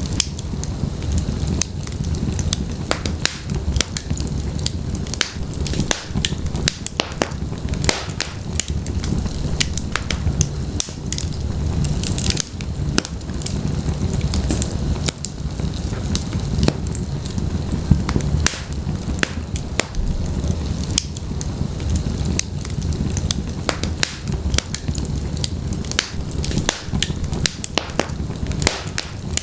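Wood logs burning in a fireplace: a steady low rumble of the flames under frequent sharp, irregular crackles and pops.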